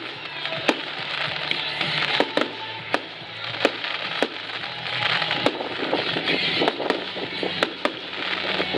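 Fireworks going off in a display: a string of sharp bangs, roughly two a second, over a continuous crackling hiss.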